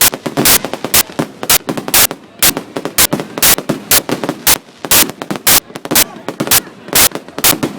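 Fireworks going off in quick succession: a dense, irregular string of sharp bangs, several a second.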